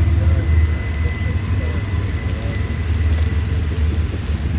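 BNSF freight train rolling past close by: a steady rumble and rushing rattle of steel wheels on the rails, with a thin high tone in the first half.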